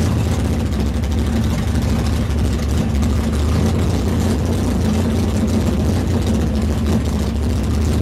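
Car engine running steadily at low speed with a low, even engine note, heard from inside the slowly moving car.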